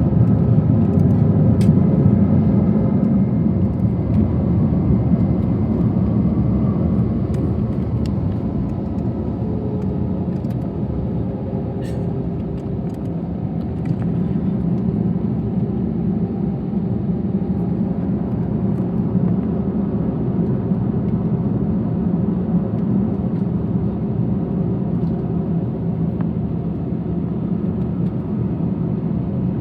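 Steady cabin rumble inside an Airbus A321, from its jet engines and the airflow around the fuselage.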